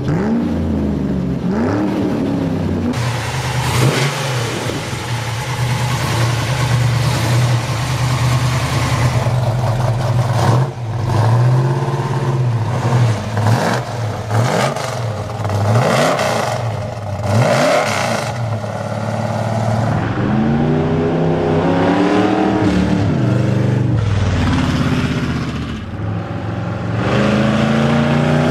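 A muscle car's V8 engine idling and being revved again and again, its pitch rising and falling with each blip of the throttle.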